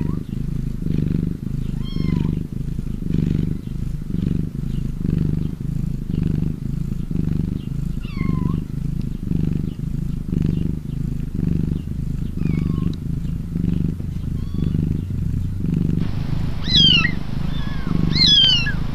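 Cat purring close to the microphone, a low rhythmic rumble that pulses evenly throughout. Faint thin high calls glide over it now and then, louder and more frequent near the end.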